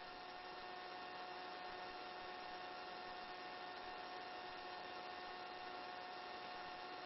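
Faint, steady electrical hum and hiss with a few constant tones and nothing else changing: the line noise of the helicopter's headset intercom and radio feed while nobody transmits.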